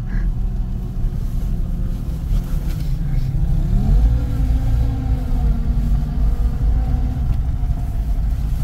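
Old Soviet car engine running, with the revs rising about three and a half seconds in, holding, then easing back a little near the end.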